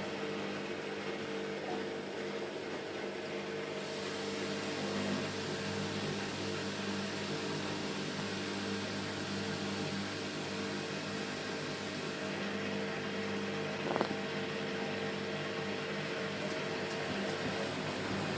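Bosch front-loading washing machine spinning its drum at a steady speed: a constant motor hum with several held tones over a rushing noise. A single sharp click sounds about three-quarters of the way through.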